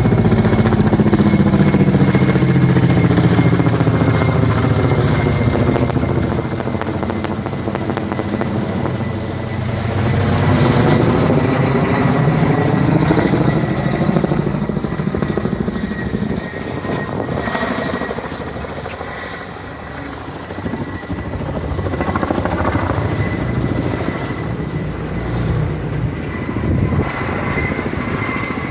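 Firefighting helicopter flying over, its rotor and turbine running loud with a thin steady whine; the pitch of the engine sound bends as the aircraft moves, and it fades a little about two-thirds in before growing again.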